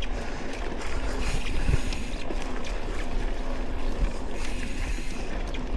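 Steady rumble of traffic on a nearby highway, with scattered small clicks over it.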